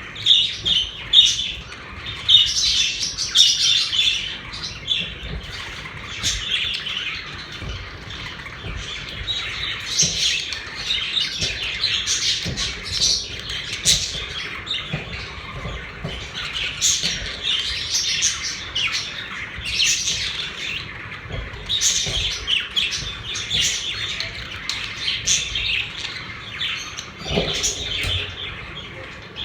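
Pet budgerigars chattering: a steady stream of overlapping chirps, warbles and squawks.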